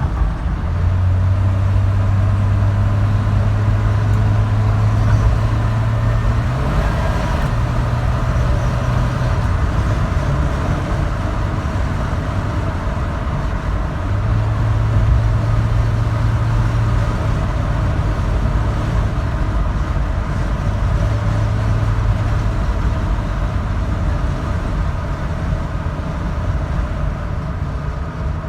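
A 1978 Dodge D100 pickup heard from inside the cab while driving at road speed: the slant-six engine runs steadily under rumbling road and tyre noise. A low hum fades in and out several times.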